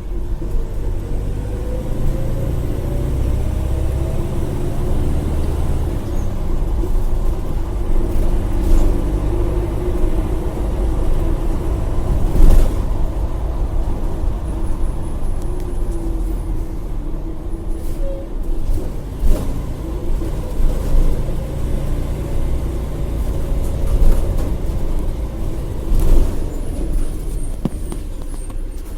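Agrale-chassis micro-bus's diesel engine running as the bus drives, heard from inside the cabin, its pitch slowly rising and falling. Several sharp knocks and rattles sound over it.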